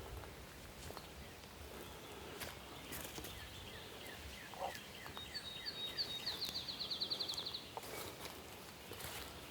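A small songbird singing: a run of short slurred notes, then a fast high trill lasting about two seconds, over a faint outdoor background with a few soft clicks.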